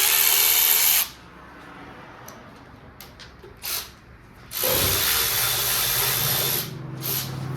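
Handheld power tool running in bursts as it spins out oil pan bolts: about a second at first, then a short blip, then a longer run of about two seconds near the end.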